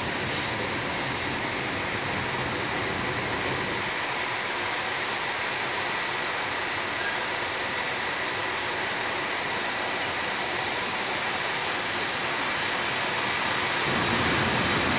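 Intermodal freight wagons carrying semi-trailers and containers rolling past on the rails: a steady rush of wheel-and-rail noise that gets louder and deeper near the end.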